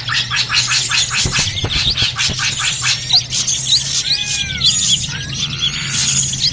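Bird-lure recording of noisy drongos: a dense chorus of many birds at once, with rapid chirp series, trills and short whistled glides, over a steady low hum.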